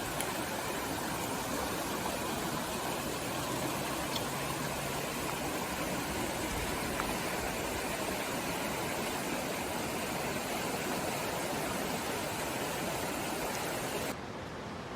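Steady rush of floodwater, a dense even noise. Near the end it cuts abruptly to a quieter, duller rush.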